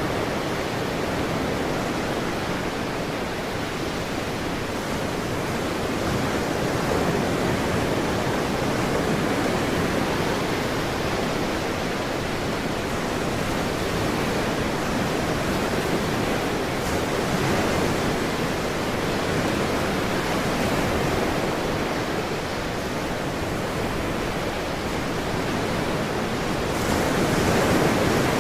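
Ocean surf rushing steadily, with slow swells in loudness as waves break and a slightly louder wave near the end.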